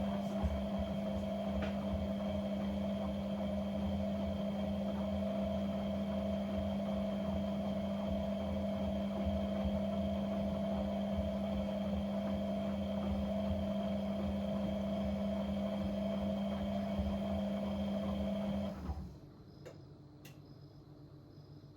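A small electric motor runs with a steady hum and a rumble underneath, then cuts off about nineteen seconds in.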